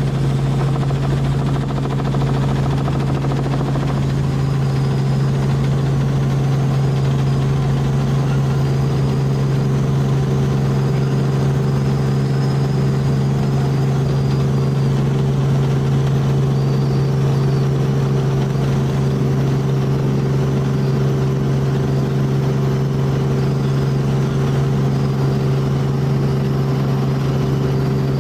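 Tour helicopter in flight, its rotor and engine making a loud, steady drone at one low pitch.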